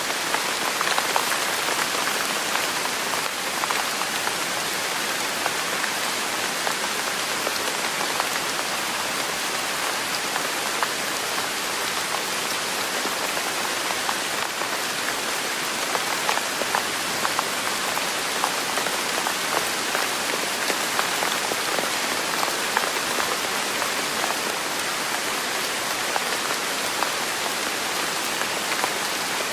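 Steady rain falling, an even hiss dotted with many small drop ticks, unchanging throughout.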